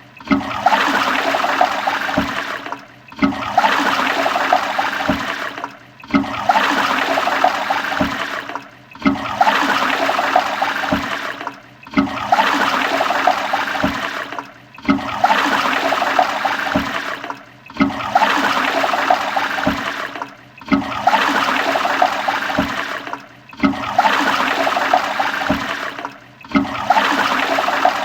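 Toilet flushing: a rush of water that swells, fades into a brief dip and starts again. The same few-second flush repeats about every three seconds.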